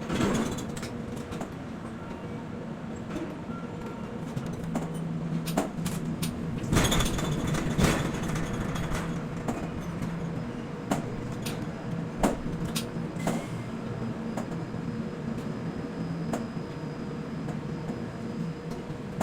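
Container-port cargo-handling machinery running with a steady hum whose pitch shifts, with scattered sharp metallic clicks and a louder rush of noise about seven seconds in.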